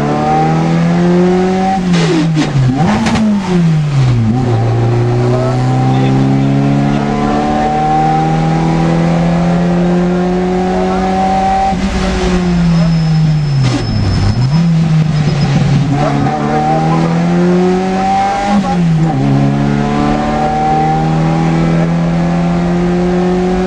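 Škoda 100 rally car's rear-mounted four-cylinder engine heard from inside the cabin, revving hard up through the gears, with the revs dropping sharply at each gear change. Around the middle the revs fall away as the car slows, then it pulls hard again. A thin high squeal sounds briefly while it slows.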